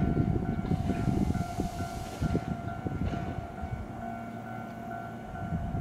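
Tobu 8000-series electric train standing at the platform: a steady high whine from its equipment, with a hiss of released air about a second in that lasts just over a second. A low rumble fades over the first few seconds, and a low steady hum comes in near the end.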